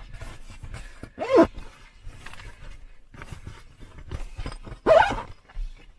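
Rustling and scraping of quilts and a down sleeping bag being stuffed by hand into a large fabric bag, with scattered soft knocks. Two brief, louder sounds come about a second in and near the end.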